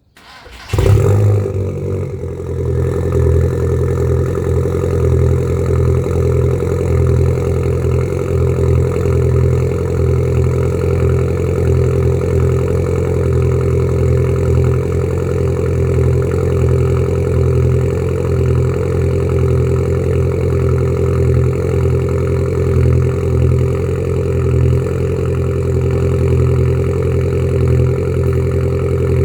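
Volkswagen Golf GTI mk4.5 engine cold-started: it cranks briefly, catches about a second in with a short rev flare, then settles into a steady cold idle.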